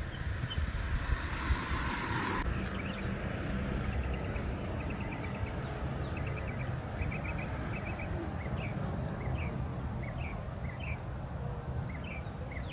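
Small birds chirping in short, quick, repeated notes over a steady low rumble. A hiss runs through the first two seconds or so, then stops abruptly.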